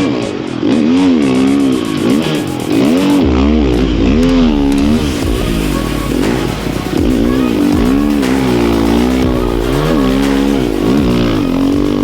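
Snow bike's single-cylinder dirt-bike engine revving up and down over and over, the pitch rising and falling about once a second as it is ridden around a track.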